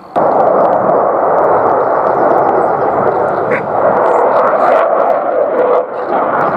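Eurofighter Typhoon's twin EJ200 turbofan engines: very loud, rough jet noise with crackle as the jet passes close. It comes in suddenly right at the start and stays loud, dipping briefly about six seconds in.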